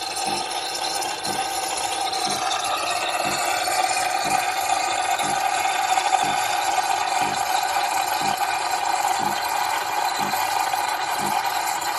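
Espresso machine pump running with a steady buzzing hum and a low pulse about once a second.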